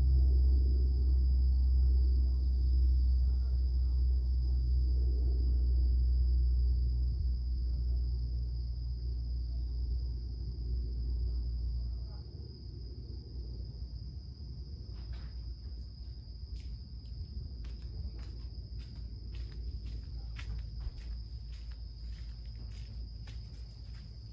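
Insects trilling steadily at one high pitch, with a very high, rapidly pulsing chirp above it. A loud low rumble fills the first half and drops away about halfway through. In the second half come scattered sharp clicks.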